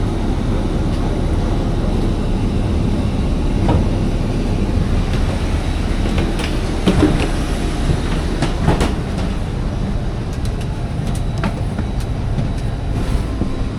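Steady low rumble of a moving vehicle, with rattles and a few sharp knocks around the middle.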